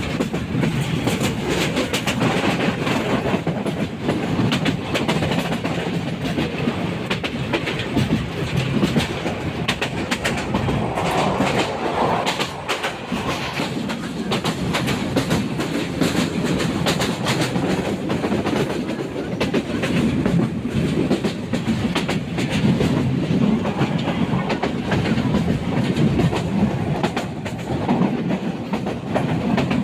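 Passenger train running at speed: the steady rumble and rattle of the carriage, with the wheels clattering on the rails.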